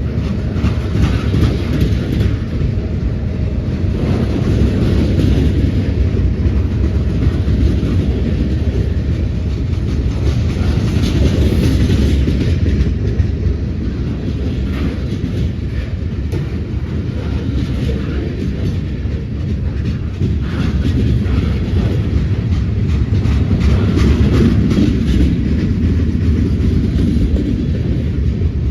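Train cars rolling past, a continuous loud rumble with the wheels clacking over the rail joints.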